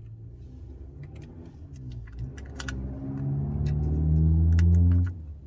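A low, motor-like hum that grows steadily louder over a few seconds and then cuts off suddenly shortly before the end, with scattered small clicks over it.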